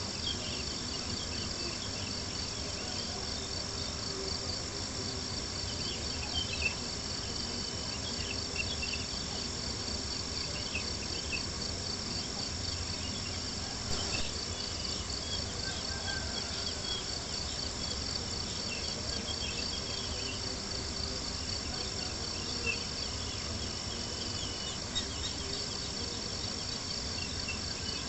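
Crickets chirping steadily in a high, fast-pulsing trill, over a low steady rumble. A campfire gives a few sharp crackles.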